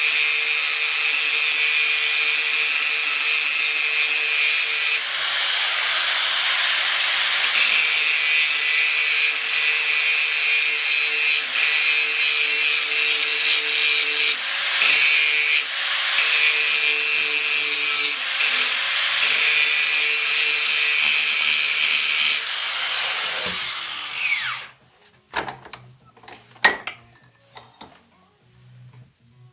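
A power tool working on steel plate, with a dense grinding-cutting noise and a steady high motor whine that shifts with load every few seconds. About 24 seconds in it is switched off and its pitch falls as it spins down, followed by a few sharp knocks.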